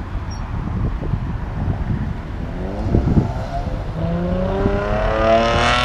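A car engine revving hard as the car accelerates away, its note rising steadily for about three seconds and growing louder toward the end, over the low rumble of other running engines.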